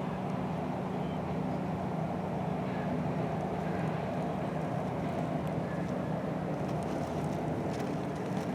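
Small quadcopter drone's propellers buzzing steadily in flight, an even hum with no change in pitch.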